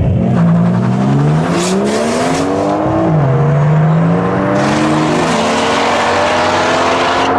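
Car engine accelerating hard, its revs climbing. The revs drop sharply about three seconds in as it shifts up a gear, then climb again.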